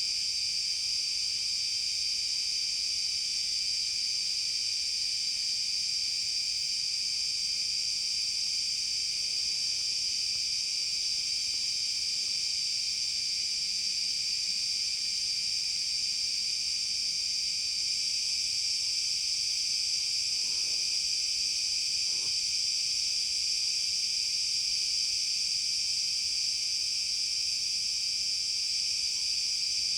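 Dense, steady, high-pitched chorus of forest insects, an unbroken shrill drone. Two faint brief sounds lower in pitch come about two-thirds of the way through.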